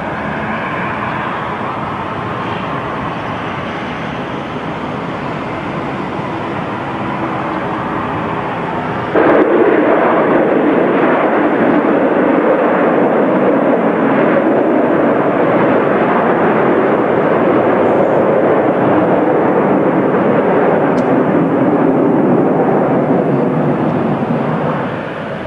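Airliner engines running loud, with a steady, rushing roar. The roar jumps up suddenly about nine seconds in and eases off near the end.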